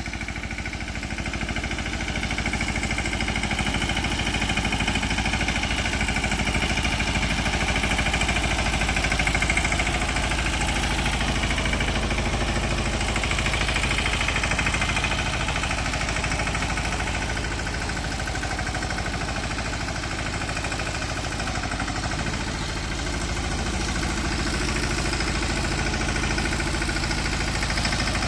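Mahindra Yuvraj 215 NXT mini tractor's single-cylinder diesel engine running steadily with a rapid, even firing beat.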